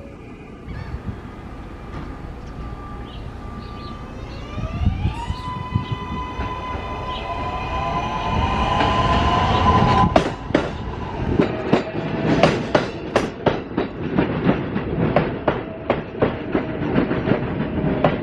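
Subway train running on the rails: an electric motor whine rises in pitch and levels off as the sound grows louder, then a steady run of wheel clicks over the rail joints takes over from about ten seconds in.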